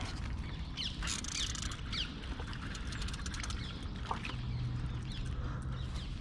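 Birds calling in short quick chirps, several in the first two seconds and a few more later, over a steady low background rumble. A low steady hum comes in about four seconds in.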